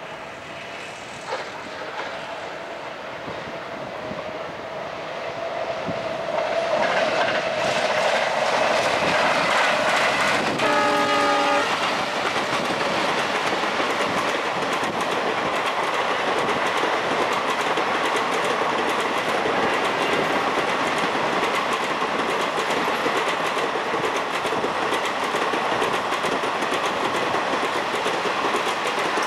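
Twin WDG-3A ALCO diesel locomotives hauling an express passenger train past. The engine drone grows louder over the first several seconds, and a short horn blast sounds about a third of the way in. Then comes the steady rumble and fast clicking of the coaches' wheels over the rail joints.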